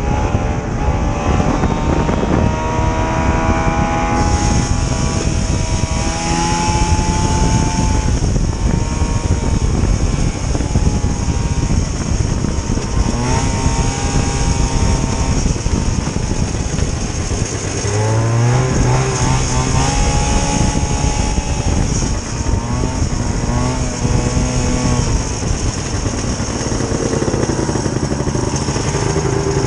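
Vintage snowmobile's two-stroke engine running under way, its pitch rising and falling repeatedly as the throttle opens and closes. About eighteen seconds in it drops to a lower, steady note, then climbs again.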